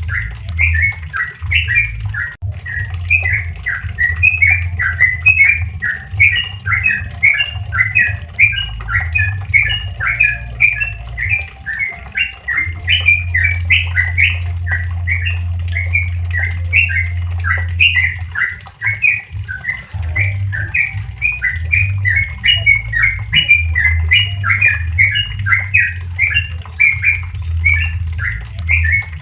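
Yellow-vented bulbul (trucukan) singing its 'ropel' song: a continuous, rapid run of short chattering notes, several a second, over a steady low hum.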